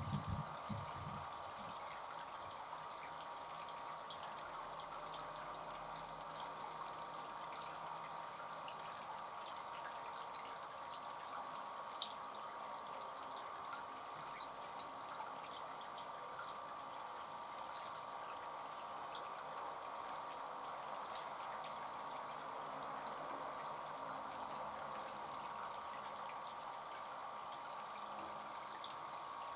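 Bird bath fountain water trickling and splashing steadily into the basin, with scattered small drips throughout.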